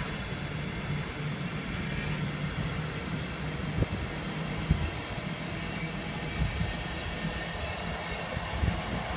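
A train passing on the line: a steady rumble of wheels on the rails, with a few short knocks spread through it.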